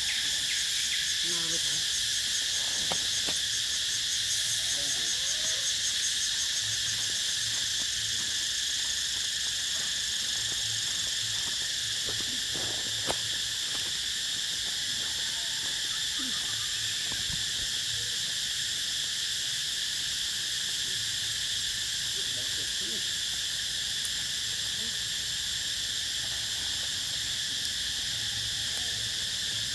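Steady, high-pitched insect chorus droning without a break, with faint short calls underneath and a single click about halfway through.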